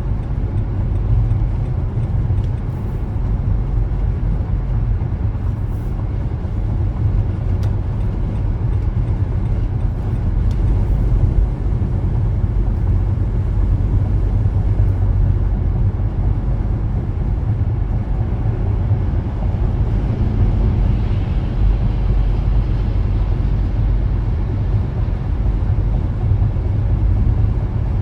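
Car driving, with a steady low rumble of road and engine noise that holds at an even level.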